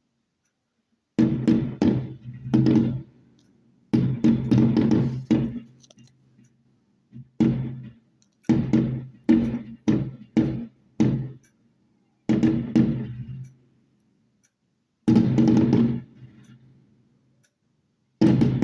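Fireworks going off: a run of about fifteen sudden bangs at irregular intervals, several in quick succession around the middle, each dying away over a second or less.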